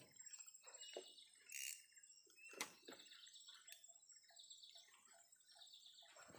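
Near silence with faint bird chirping in the background and a couple of soft clicks.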